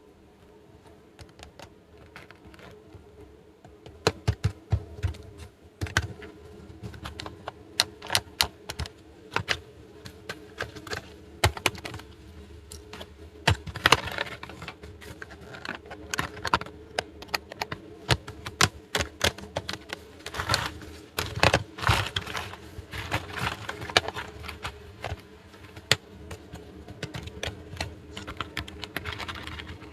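Small plastic toy pieces being handled, set down and clicked together: many irregular light clicks and taps, sparse at first and thickening about four seconds in.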